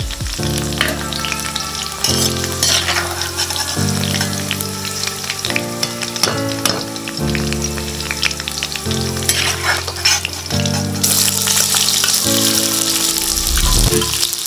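Drumstick (moringa) pieces sizzling as they fry in hot oil in an aluminium kadhai, while a metal ladle stirs and lifts them. The sizzle grows louder about 11 seconds in. Background music with sustained chords plays underneath.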